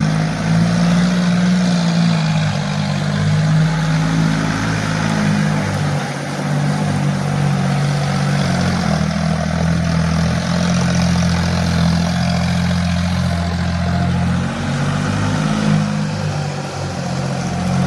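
John Deere tractor engine running steadily, its low note shifting slightly in pitch now and then.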